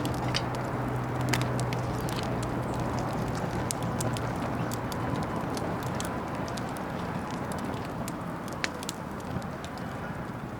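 Wood bonfire crackling, with scattered sharp pops over a steady hiss; a low hum fades out about four seconds in.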